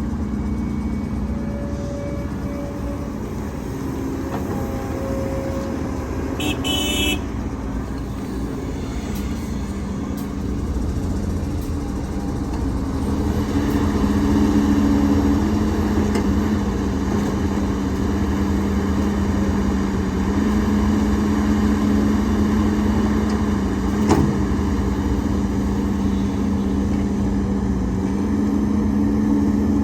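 Heavy diesel engine of earthmoving machinery running steadily, louder from about a third of the way in. There is a brief high-pitched squeal about seven seconds in and one sharp knock late on.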